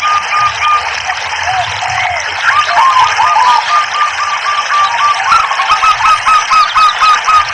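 Zebra doves cooing in fast runs of short, repeated notes, over a steady trickle of running water. One run fades shortly after the start, and another starts about two and a half seconds in and carries on.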